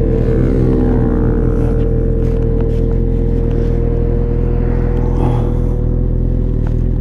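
Motorcycle engine idling steadily. A vehicle passes on the road in the first second or so, its sound falling in pitch as it goes by.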